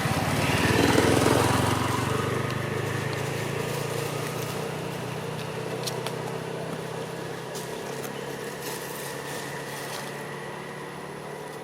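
A small engine running, loudest about a second in and then slowly fading away.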